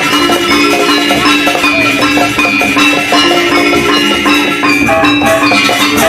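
Balinese gamelan ensemble playing a tabuh kreasi: bronze metallophones ringing in dense, fast runs of notes over drums, at an even, loud level.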